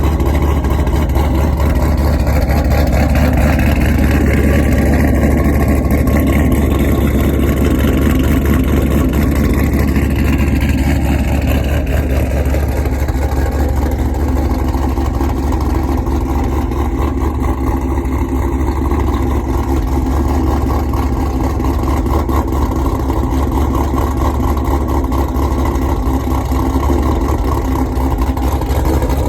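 Chevrolet Caprice's L77 6.0-litre V8, fitted with a Brian Tooley Racing stage 4 camshaft, idling after a cold start. The engine sound is loud and steady, changing a little in its first dozen seconds and then settling.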